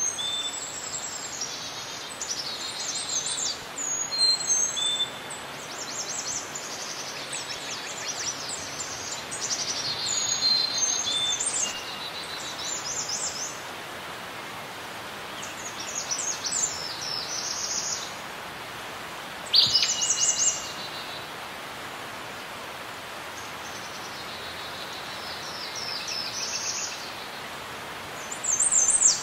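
Songbirds singing in short repeated phrases of chirps, down-sweeping whistles and trills, loudest about twenty seconds in and again at the very end, over a steady background hiss.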